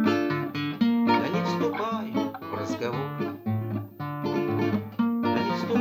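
Acoustic guitar playing chords without singing, a new chord struck about every second.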